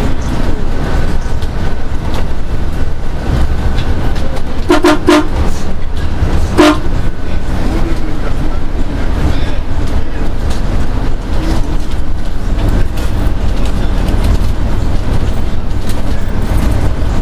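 Small fishing boat's engine running with a steady low drone. A horn gives a few short toots about five seconds in and one more about a second and a half later.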